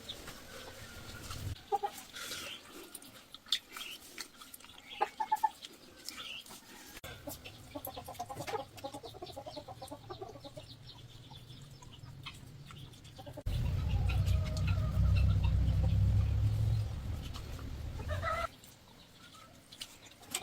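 Chickens clucking in short calls among scattered clicks and knocks. A loud low rumble comes in about two thirds of the way through and stops after about five seconds.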